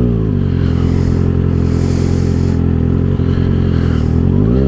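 2024 Kawasaki ZX-6R's 636 cc inline-four engine, through an M4 aftermarket exhaust, running at low steady revs, then revving up near the end.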